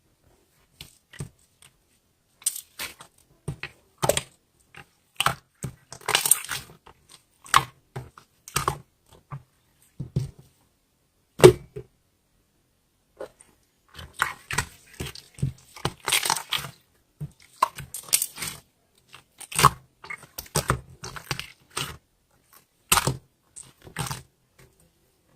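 Slime being squeezed and pressed by hand, making irregular sharp clicking pops and short crackly bursts with gaps of silence between.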